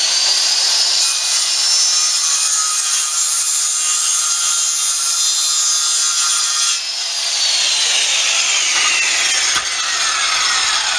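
Electric circular saw spinning up with a rising whine and cutting through a framing board for about seven seconds. Then the blade runs free and winds down, its whine falling steadily in pitch to the end. It is taking a small trim cut off the board to fit it.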